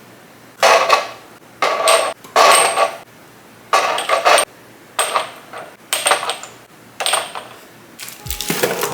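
Items being set down one after another into plastic fridge containers and shelves, about seven sharp clattering knocks roughly a second apart, some with a light high ring. Music comes in near the end.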